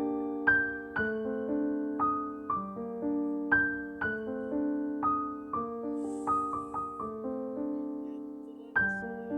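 Slow, gentle solo piano music: single notes and chords struck about once or twice a second, each ringing and fading, with one longer sustained chord dying away near the end before the next note.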